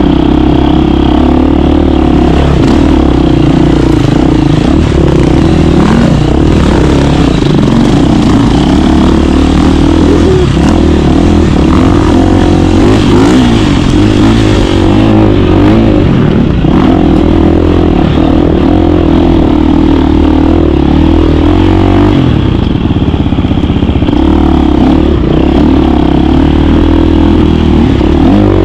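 KTM 350 dirt bike's single-cylinder four-stroke engine running steadily under way, its pitch rising and falling with the throttle.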